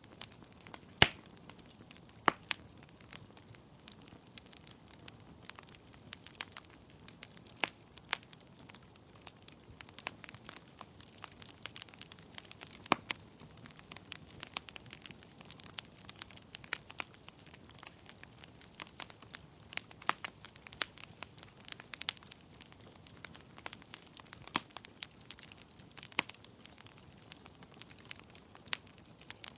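Wood logs burning in a fireplace, crackling with irregular sharp pops over a soft steady hiss of flame; the loudest pop comes about a second in.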